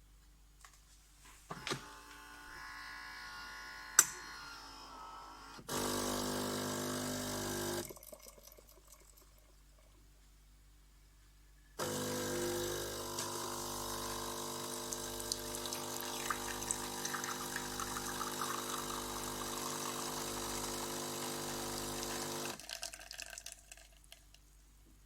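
Philips 5400 bean-to-cup coffee machine running its water pump with liquid flowing: a short spell of about two seconds, then after a pause a steady run of about ten seconds. Soft clicks and one sharp click come before it.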